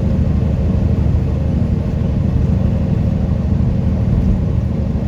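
Steady low drone of a semi-truck at highway cruising speed, heard inside the cab: engine and road noise, with no change in pitch or level.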